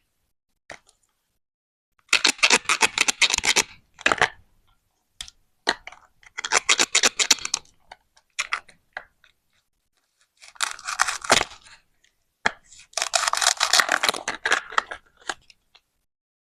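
Plastic toy fruit or vegetables being cut apart with a toy knife: four rasping, tearing bursts of a second or two each, with a few sharp clicks between them.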